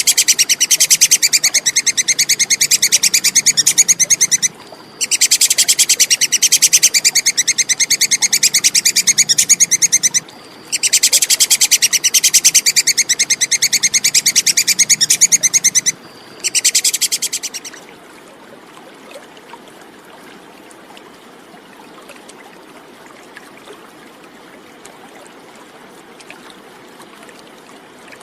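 Tupai kekes squirrel giving its rapid, high chattering call in four long bouts of several seconds each, with short breaks between them. The calling stops about two-thirds of the way through, leaving only a faint steady hiss.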